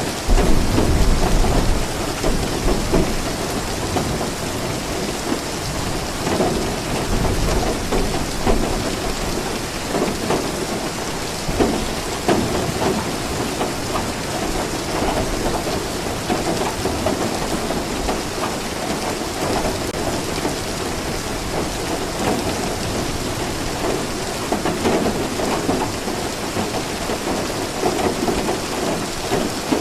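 Steady heavy rain falling. A low thunder rumble swells in the first couple of seconds and then fades back into the rain.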